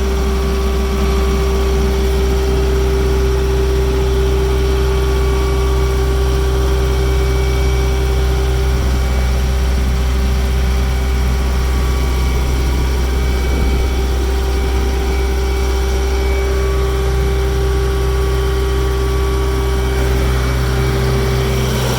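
Kubota M108 tractor's diesel engine running steadily, a heavy low hum with a constant tone and no change in speed.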